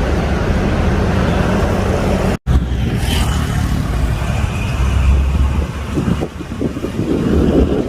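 Airbus A320 airliner jet engines landing close by: a steady engine rumble that cuts off abruptly about two and a half seconds in. Another A320's rumble follows with a faint high engine whine, and wind buffets the microphone near the end.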